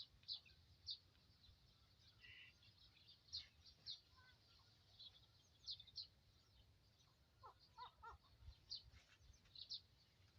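Faint chirping of small birds: short high chirps at irregular intervals, with a few lower notes about eight seconds in.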